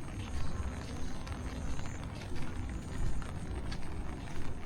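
Heavy tropical rain falling: a dense, steady hiss full of small drop impacts, over a fluctuating low rumble.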